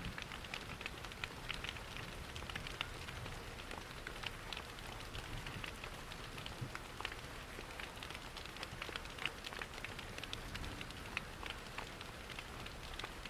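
Steady rain and rushing water with frequent small, sharp crackles of a wood fire in a fireplace.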